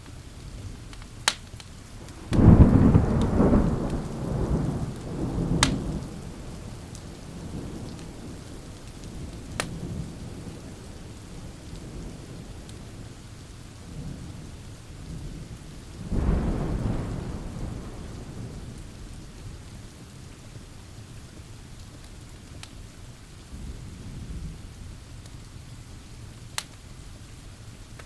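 Steady rain with thunder: a loud clap about two seconds in that rumbles on for several seconds, a second about sixteen seconds in, and a fainter rumble near the end. A few sharp pops of a crackling wood fire are heard now and then.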